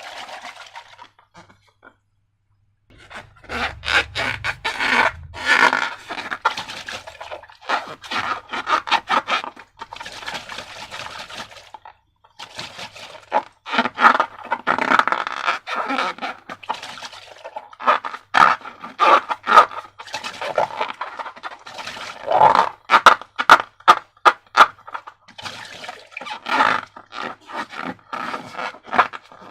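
Slime being squished and worked by hand, giving runs of sticky, wet clicks and crackles in bursts with short pauses between them.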